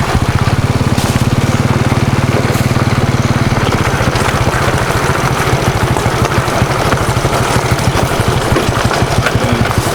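A small engine running steadily with a close, even pulse. A lower hum under the pulse drops away about four seconds in.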